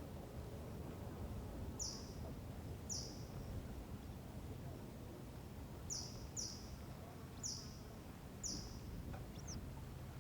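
A bird giving short, high chirps that drop sharply in pitch, about seven spaced unevenly, over a steady low outdoor rumble of wind and ambience.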